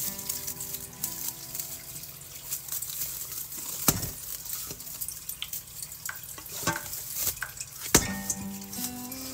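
Food sizzling and crackling in hot oil in a pan, with two sharp knocks, one about four seconds in and one near the end.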